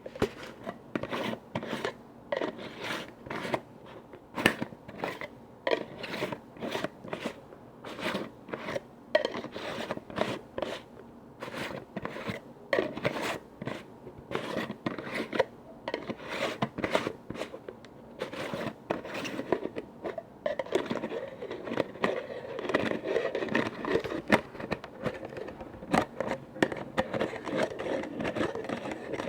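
Close-miked ASMR tapping and scraping on containers and their lids: quick, irregular taps a few a second, mixed with scratching. In the last third the sounds crowd together into a denser, continuous scratching.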